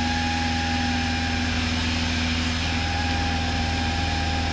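Cessna 172's piston engine and propeller droning steadily in cruise, heard inside the cabin, holding one even pitch throughout.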